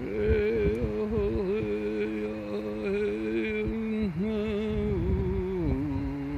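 A man chanting without words in long held notes that waver and dip, dropping to a lower note near the end.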